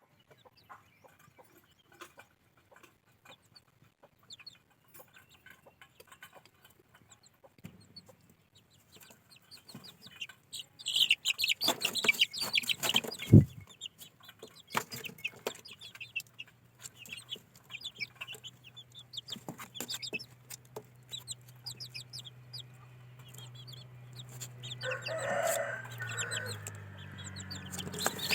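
Parrot-beak gamefowl chicks peeping in quick, high chirps, loudest in a dense flurry about halfway through, with a single sharp thump just after it. A low steady hum comes in a little past the middle.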